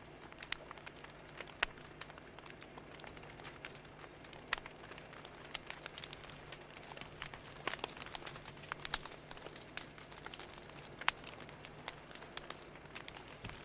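Crackling fire: irregular sharp pops and snaps, some louder than others, over a soft steady hiss.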